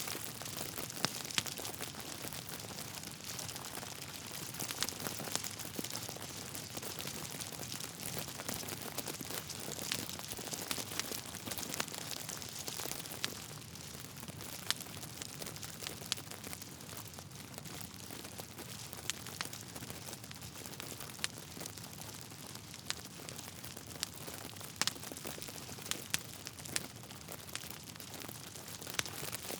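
Wood fire burning in a fireplace: a steady hiss with irregular sharp crackles and pops from the burning logs, some much louder than the rest.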